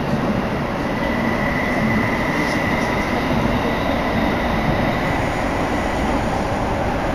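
Tsukuba Express commuter train running through a tunnel, heard from inside the car: a steady rumble of wheels on track, with a thin high whine setting in about a second in.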